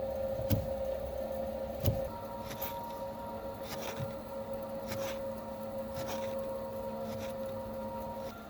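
A small electric motor running at a steady pitch, with scattered clicks and knocks; it cuts off near the end.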